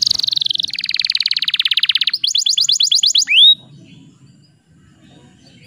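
Young domestic canary singing: a fast falling trill, then a rapid buzzy roll, then a run of quick rising notes. The song stops about three and a half seconds in, leaving a faint low rumble.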